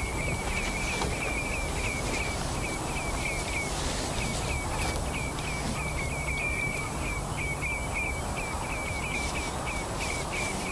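A bird calling in a long run of short, repeated chirps, several a second, over a steady low rumble.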